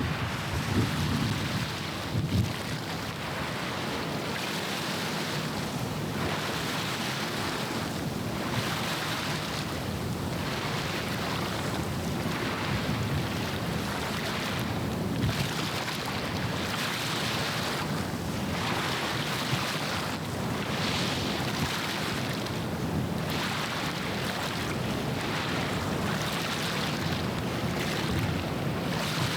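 Estuary water washing against the shore in regular swells, one every second or two, with wind buffeting the microphone in low gusts, strongest near the start.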